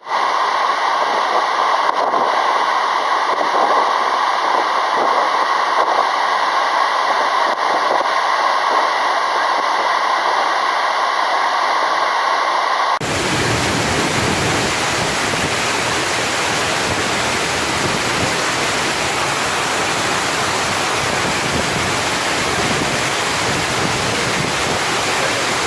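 Steady rushing roar of a tall waterfall. About halfway through it changes abruptly to a fuller, deeper rush, as from a cut to another recording.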